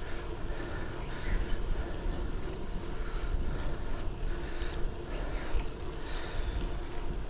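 Wind rumbling on a GoPro Hero 10's built-in microphone, damped by a foam windslayer cover, mixed with the noise of a folding bike rolling over pavement; the low rumble rises and falls unevenly.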